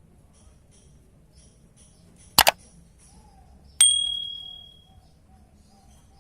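A sharp double knock, then a single metallic ding that rings on and fades over about a second, over faint rapid high chirping.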